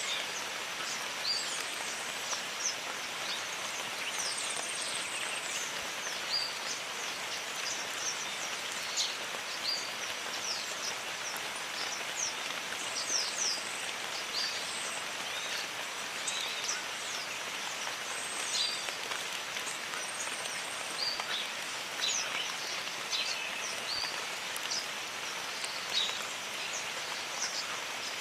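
Steady rain falling in a jungle, with frequent short, high chirping calls sounding over it.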